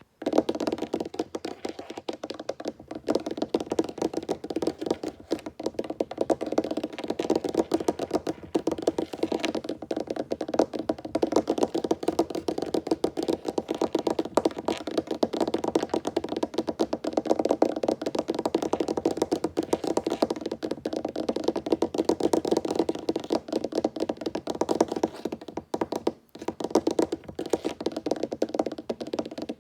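Fingers tapping rapidly on a wooden tabletop: a dense, continuous patter of quick hollow knocks, with a brief pause near the end.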